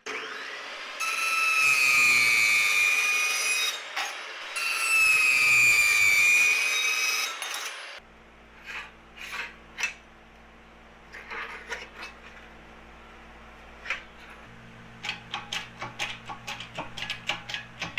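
A power tool cutting through steel stock twice, each cut lasting about three seconds, with a high ringing whine that sags slightly under load. After that come lighter clicks and scrapes of metal pieces being handled, over a low shop hum.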